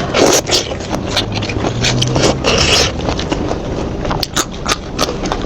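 Close-miked eating of seafood in Padang sauce: shells crackle and scrape as they are pulled apart and chewed, with many short sharp clicks and two louder rustling bursts, one near the start and one about halfway.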